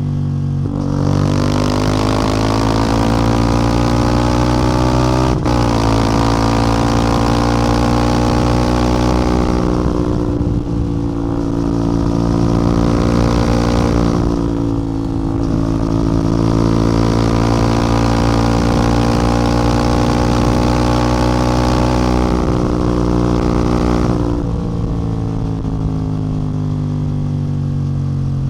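CF Moto 450MT parallel-twin engine and exhaust running under way, its note climbing slowly in pitch as the bike pulls. The note dips and softens several times: around ten seconds in, again near fifteen, and near the end. There is a brief step in pitch about five seconds in.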